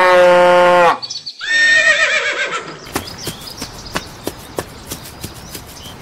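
A loud, steady pitched call that drops in pitch and cuts off about a second in, followed by a wavering horse whinny. Then comes a run of hoof clip-clops, about three a second.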